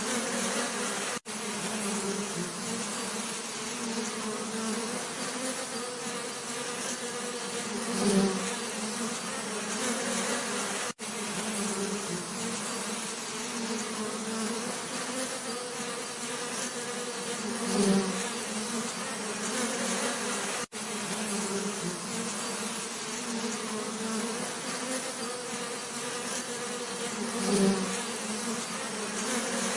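Honeybees buzzing in a steady drone, many wings at once. It swells briefly louder about every ten seconds, as a bee comes close, and drops out for an instant three times.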